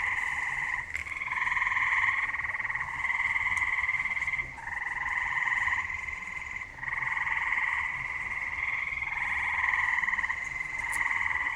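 Several frogs calling at night in overlapping trills, each lasting a second or two, a very loud chorus of the kind that follows rain.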